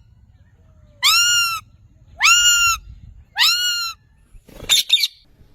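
A pet parrot screeching: three loud, high calls about a second apart, each sweeping up and then held for about half a second, followed near the end by a shorter, harsher rasp.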